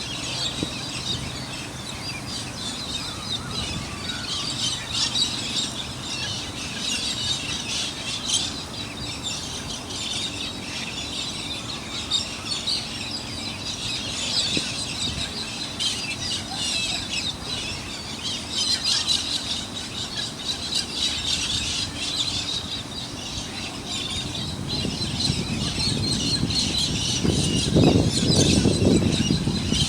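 Many birds chirping and squawking together, dense and continuous, with a faint steady low hum underneath; a louder low rushing sound builds near the end.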